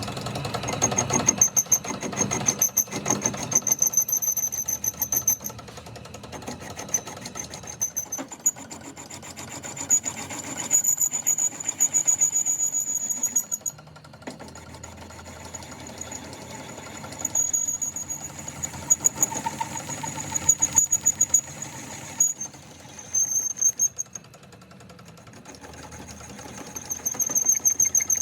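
A workshop power tool running with a rapid mechanical rattle and a high-pitched whine, going louder and quieter in several spells as it works the part.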